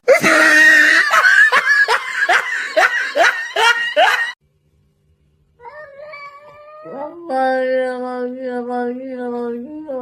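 A cat yowling loudly in a quick run of falling cries, about nine in four seconds. It breaks off suddenly, and after about a second of silence a steady humming tone follows, held for several seconds with small steps in pitch.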